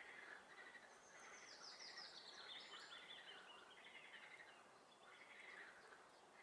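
Faint frog chorus from a swamp, pulsed calls repeating about once a second. A songbird's descending trill runs over it about a second in.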